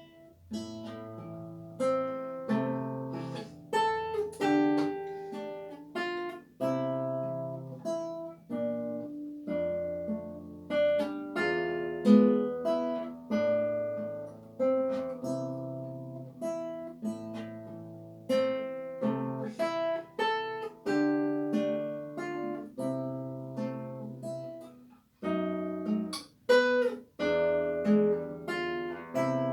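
Classical guitar played solo: a plucked, singing melody over bass notes, with a brief pause a little before the end before the playing resumes.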